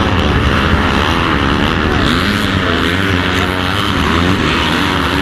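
Yamaha YZ250F motocross bike's 250 cc four-stroke single-cylinder engine running hard under race load, its pitch rising and falling repeatedly as the throttle is worked on and off.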